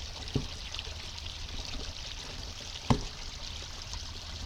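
Water pouring steadily over a small waterfall on a rain-flooded creek, a continuous rushing trickle. Two short thumps cut through it, one about half a second in and a louder one near three seconds.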